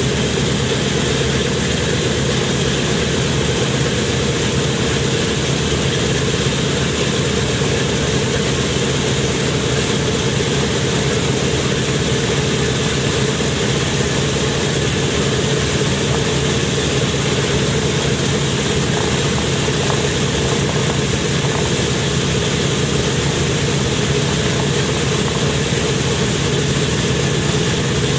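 A large engine idling, its pitch and level steady and unchanging throughout.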